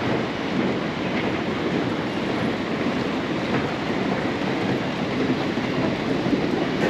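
London Underground train running, a steady noise of wheels on rails with no change over the seconds.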